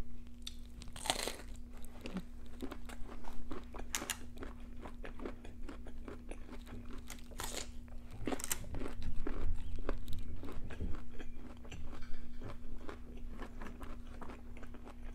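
Close-miked crunching and chewing of raw cauliflower florets: repeated crisp bites and irregular crackling chews.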